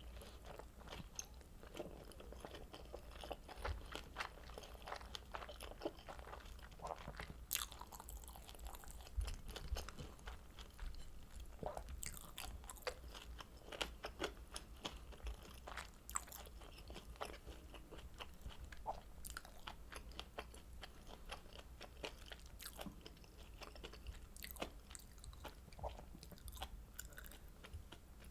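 Close-miked chewing and biting of kimchi dumplings dipped in a creamy spicy sauce: many short wet mouth clicks and smacks with some crunching, an irregular run of small sharp sounds.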